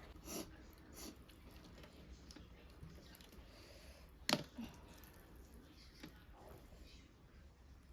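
Quiet mouth sounds of someone eating duck curry: soft chewing with scattered small clicks, and one sharp click a little over four seconds in.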